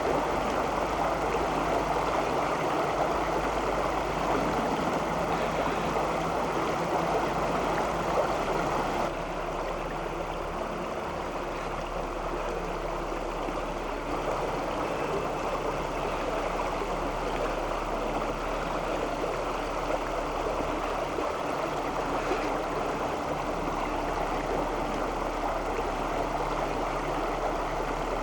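Creek water rushing steadily over rocks, a little quieter after a shift about nine seconds in.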